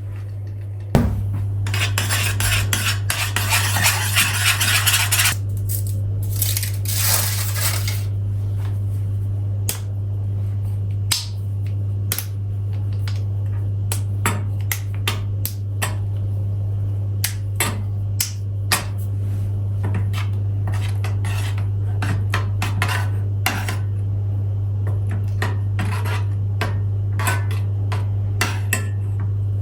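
Dishes and cutlery being handled, with many light, irregular clinks and knocks, over a steady low hum. About two seconds in, a rushing noise lasts a few seconds.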